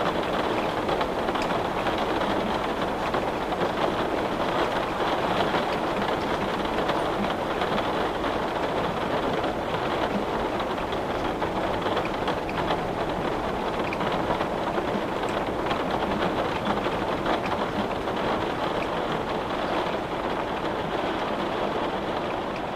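Steady rain falling on a window, a dense, even patter of drops with small ticks scattered through it.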